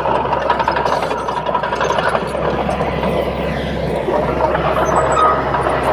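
Bulldozer's diesel engine running steadily with a low hum, under a dense clattering noise.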